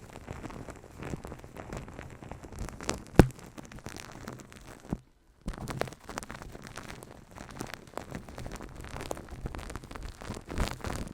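Close-up ASMR hand sounds on the microphone: dense rustling and crackling from rubbing, with scattered taps and one sharp loud tap about three seconds in. The sound cuts out completely for about half a second just after five seconds.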